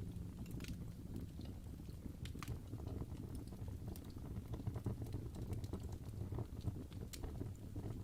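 Wood fire burning in a fireplace: a low steady rumble of flames with scattered sharp crackles and pops from the burning logs.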